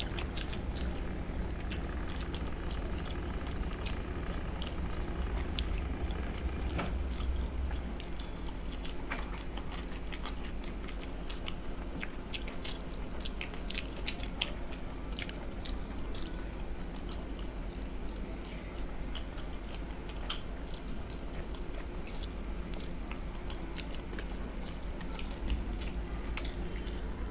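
Two people eating fried vegetable chops by hand, chewing and biting, with scattered small crisp clicks. A steady high-pitched whine sits underneath.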